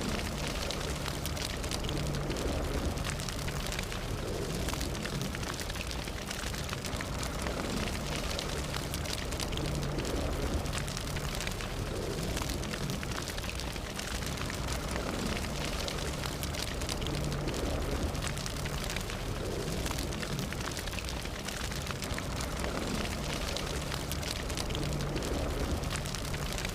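Fire burning, with dense crackling and popping over a steady low rumble.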